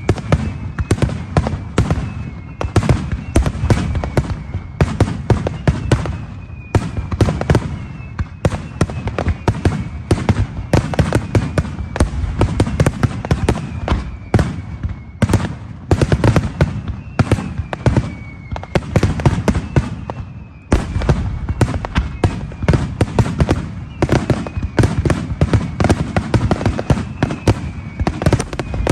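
Fireworks display in a rapid barrage: dense, overlapping cracks and booms of bursting shells, with several long falling whistles and a brief lull about two-thirds of the way through.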